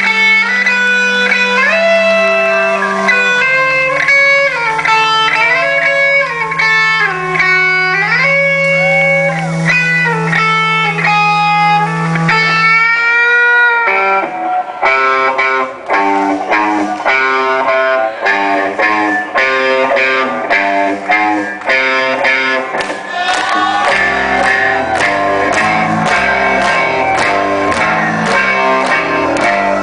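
Live rock band playing instrumentally: a guitar lead with bending, sliding notes over a single held low note, then about 14 seconds in the full band comes in with a driving, steady beat and choppy repeated chords.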